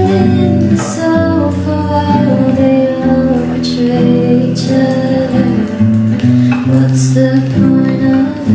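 A woman singing a song over acoustic guitar accompaniment.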